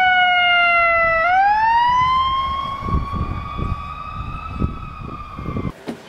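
Ambulance siren wailing: one long tone that sinks slowly, sweeps up about a second in and holds high, then cuts off suddenly near the end.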